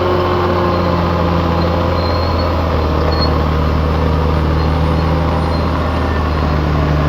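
Bulldozer's diesel engine running steadily, its pitch shifting slightly.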